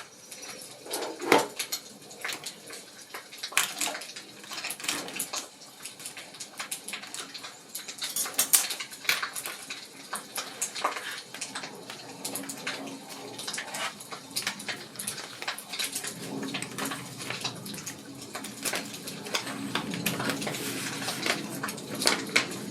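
Wood fire crackling, with irregular sharp pops and snaps. A low steady rumble joins about two-thirds of the way through.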